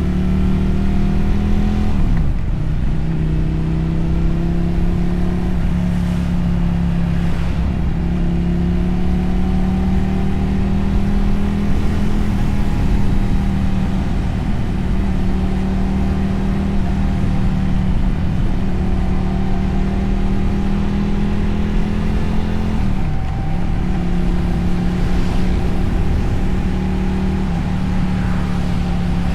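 Motorcycle engine and exhaust heard from the rider's position on the move, running at a steady pitch that creeps slowly upward. It dips briefly and comes back about two seconds in, again around six to eight seconds, and about twenty-three seconds in.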